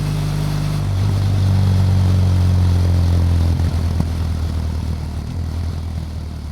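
BMW F800GS motorcycle's parallel-twin engine running under a rush of wind noise. The engine note steps down in pitch a few times as the bike slows.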